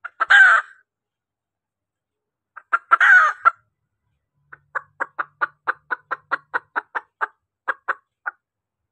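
Junglefowl hen calling: two loud calls about three seconds apart, then a run of about sixteen short clucks at roughly four a second. This is the hen's call that draws in males.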